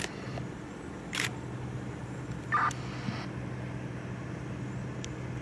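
Steady low engine hum, with a short sharp click about a second in and another brief sound near two and a half seconds.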